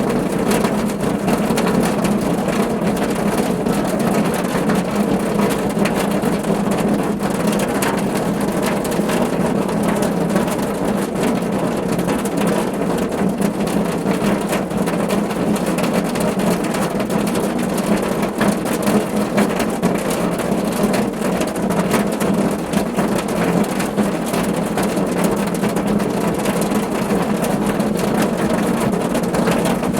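Steady rain pattering on a car roof: a dense, even spatter of drops over a steady low rumble, unchanging throughout.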